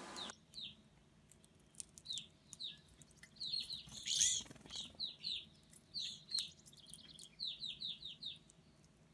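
House finches giving short, high chirps, each dropping slightly in pitch, in loose runs of two to five with pauses between.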